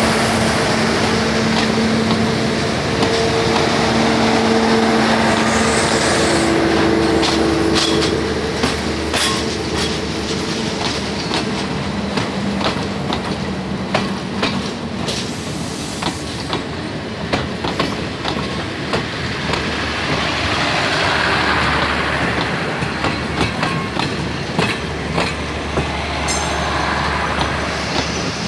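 Passenger coaches of a metre-gauge Thai train rolling past at close range: a steady rumble of wheels on rail, with a humming tone over the first dozen seconds, then rapid rhythmic clacks as the wheels cross rail joints.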